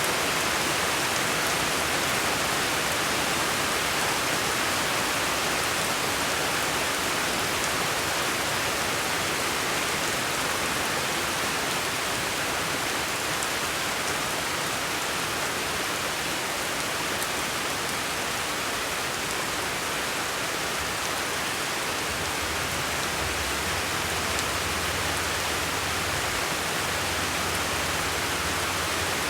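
Steady, even hiss of rain, with a low hum joining about two-thirds of the way through.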